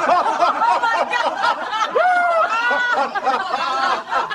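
Several people laughing and chuckling, overlapping, throughout.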